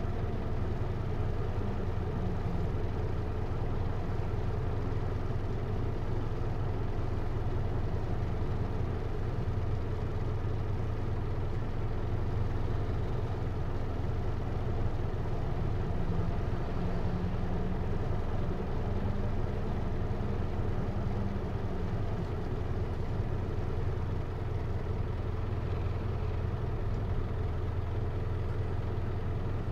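Hino Liesse microbus's J05C four-cylinder diesel engine running steadily at low revs, heard from inside the cabin.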